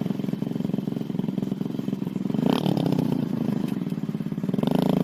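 Small single-cylinder motorcycle engine of a homemade motorbike running at a steady idle. It is briefly revved about two and a half seconds in and rises again near the end.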